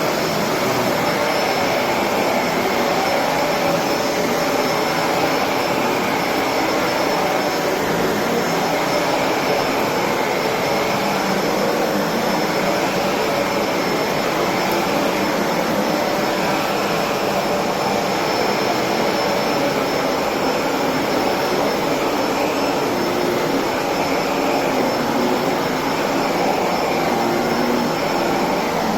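Electrolux Precision bagless upright vacuum cleaner running steadily while vacuuming, a steady rush of air with a thin high whine from the motor.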